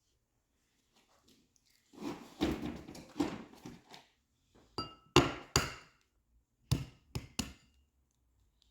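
Kitchen clatter while baking: about two seconds of rustling and scraping, then six sharp knocks of utensils or bowls against a counter, some in quick pairs.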